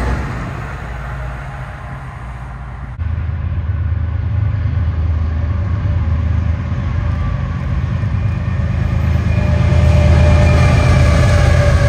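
Rumble of a passing commuter train fading away. Then, after a sudden cut about three seconds in, the deep engine drone of GE diesel freight locomotives leading an intermodal train, growing louder as they pass. Faint high whines show up near the end.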